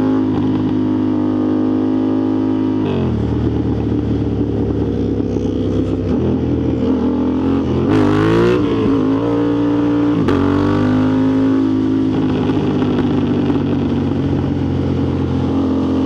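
Motorcycle engine running under load while riding, its pitch holding steady between throttle and gear changes. It drops suddenly in pitch about 3, 6 and 10 seconds in, with a quick rise and fall of the revs around 8 seconds in.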